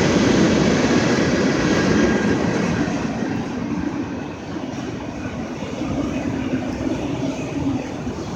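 A train rolling past, a steady rumble of rail traffic that eases off a little after about three seconds.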